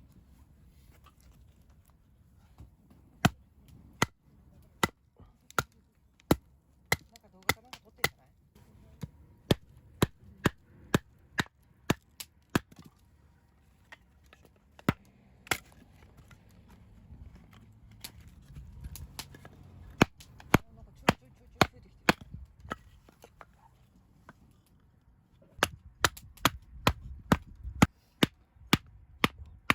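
Campfire crackling: firewood popping in sharp, irregular cracks, a few a second, with a quicker run of pops near the end.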